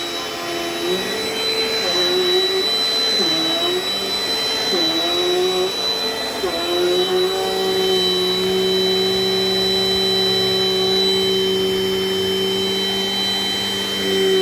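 Dirt Devil Dynamite Plus vacuum cleaner running with a steady motor whine. Its pitch dips briefly about four times in the first half, then holds steady.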